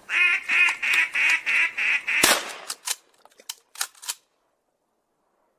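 Duck call blown in a quick series of about seven loud, evenly spaced quacks, cut off by a single sharp crack a little after two seconds, then a few fainter clicks.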